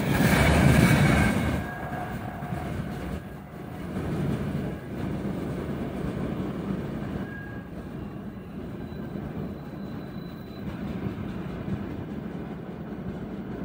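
Tail end of a long loaded freight train of open gondola wagons rolling past close by, loud for the first second and a half until the last wagon clears. The rumble of the receding train then carries on, fainter and steady.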